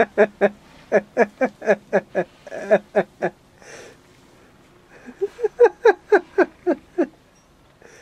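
A person laughing hard in rhythmic bursts of "ha", about three or four a second, in two long bouts with a breath drawn in between them near the middle.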